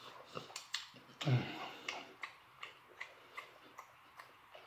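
Close-up mouth sounds of chewing lobster tail meat: wet smacks and clicks coming evenly at about two and a half a second. Just over a second in there is one louder event with a short falling vocal sound from the eater.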